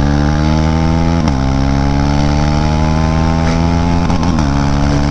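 KTM Duke 390 single-cylinder engine running loud through a swapped-in BS4 exhaust with its dB killer cut out, pulling under acceleration on the move. The pitch climbs slowly and steadily, dipping briefly about a second in and again about four seconds in.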